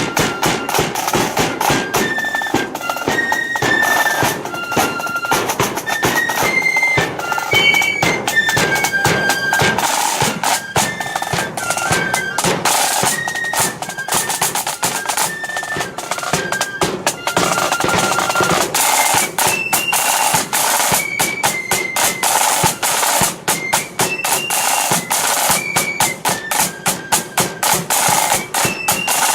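Blood-and-thunder flute band playing a march: massed flutes carry a high melody over rapid, driving snare-drum beats and rolls.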